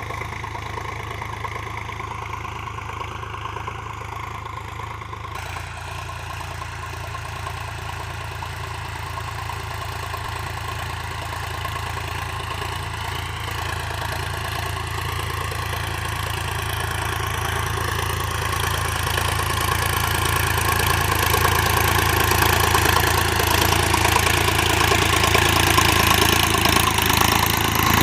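Sonalika tractor's diesel engine running steadily, growing gradually louder and busier over the second half.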